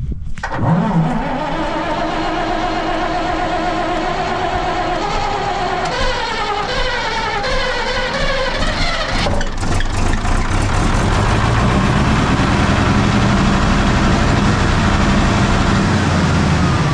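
Large Rolls-Royce diesel turbo engine turning over. It kicks in suddenly about half a second in, climbs in pitch for a few seconds in the middle, then settles into a steady, lower sound.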